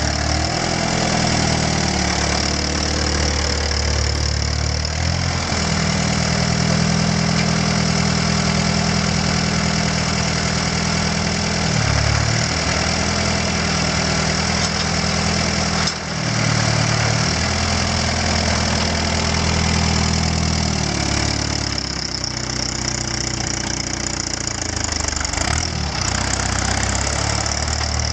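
Allis-Chalmers CA tractor engine running steadily, with the engine note dipping briefly twice midway and settling lower and rougher near the end.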